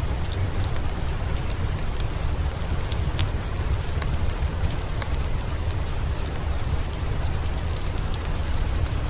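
Steady rain with a deep low rumble, dotted with scattered sharp crackles of a wood fire in a fireplace.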